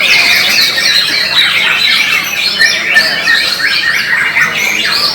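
Many caged white-rumped shamas (murai batu) singing at once, a dense, continuous tangle of fast, overlapping whistled phrases.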